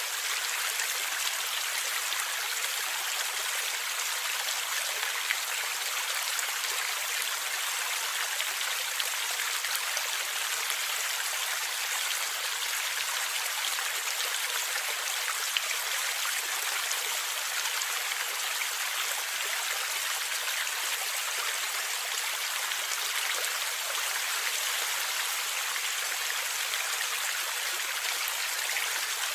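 Stream water gurgling and splashing over rocks, a steady even rush with small droplet ticks scattered through it.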